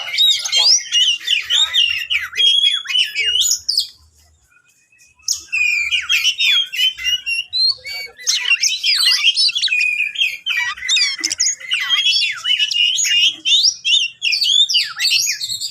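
Oriental magpie-robin (kacer) in full song: fast, varied whistles, trills and harsh scratchy notes in a continuous stream. It breaks off for about a second a little after four seconds in, then resumes.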